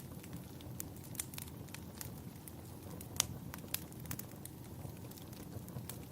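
Wood fire in a fireplace crackling, with irregular sharp pops, the loudest about three seconds in, over a steady low rumble.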